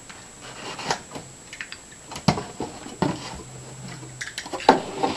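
Shipping package being handled and opened by hand: scattered rustling with a few sharp knocks and clicks.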